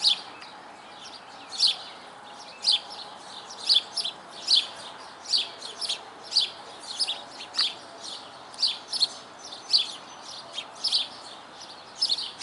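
Sparrows chirping: a steady run of short, sharp chirps, about one or two a second, over a faint background hiss.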